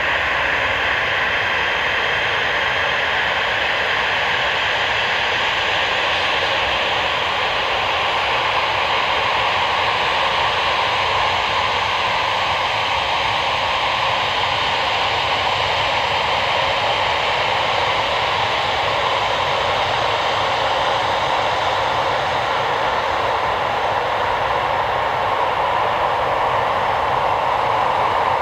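Embraer 195's twin GE CF34-10E turbofans running steadily, heard from outside as a loud, even jet noise with a faint high whine drifting slightly lower.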